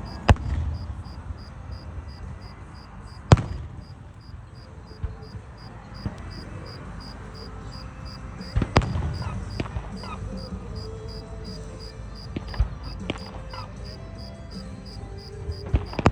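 Fireworks going off: single sharp bangs every few seconds, the loudest about three seconds in. Under them, a cricket chirps in a steady fast pulse.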